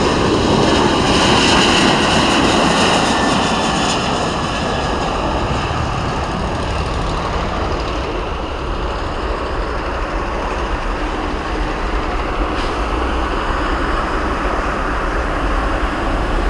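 Boeing 737 jet airliner departing, loud engine noise with a high engine whine that fades over the first several seconds, leaving a steady rushing rumble.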